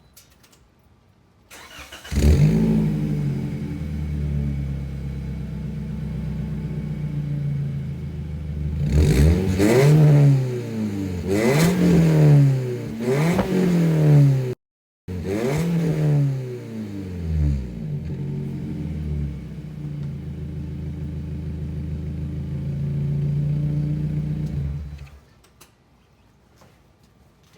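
2017 Toyota Corolla iM's 1.8-litre four-cylinder, breathing through a cold air intake, ceramic header and aftermarket exhaust, started warm: a short crank, then it catches with a flare and settles to idle. In the middle it is revved in a series of quick blips, each rising and falling back to idle. Near the end the engine is switched off.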